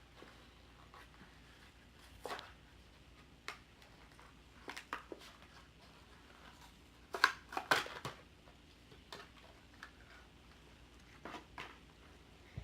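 Packaging of a Matchbox diecast toy car being handled and torn open: scattered crinkles and clicks of plastic and card, with a busier, louder cluster about seven to eight seconds in.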